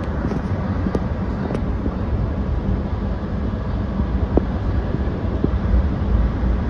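Sydney Trains electric suburban train running, heard from inside its rear driving cab: a steady low rumble of wheels on rail, with a few faint clicks.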